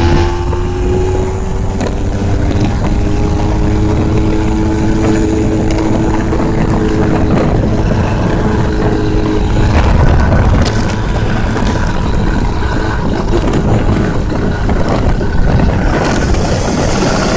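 Dirt bike engine running at a nearly steady pitch, after a slight dip in pitch at the start.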